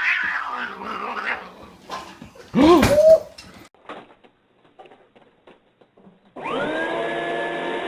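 A short, loud cry that rises and falls in pitch sounds about two and a half seconds in, followed by scattered clicks. Near the end a small electric motor appliance switches on, its hum rising as it spins up, then runs steadily.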